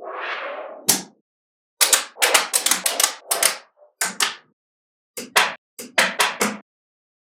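Small magnetic balls clicking sharply as they snap onto one another, in quick runs of clicks with short silent gaps between them. A brief hiss comes first.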